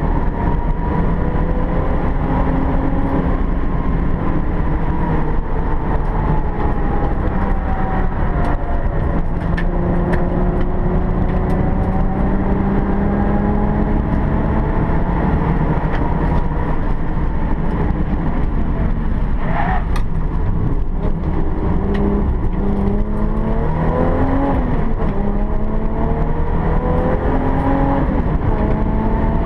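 Alfa Romeo 164 race car's engine heard from inside the cabin at speed on track, its note rising and falling with the revs, over steady road and wind noise.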